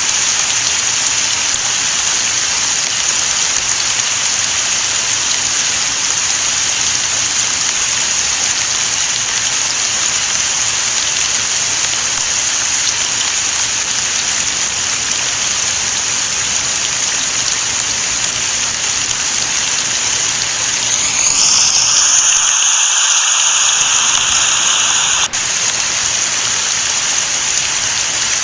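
Steady rain falling, an even, bright hiss. About three-quarters of the way through, the hiss grows louder and brighter for a few seconds, then cuts back suddenly.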